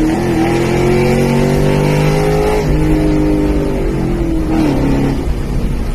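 Ford Mustang GT's V8 engine pulling hard under acceleration, its pitch climbing, dropping sharply at an upshift about two and a half seconds in, climbing again, then falling away near the end as the throttle eases off.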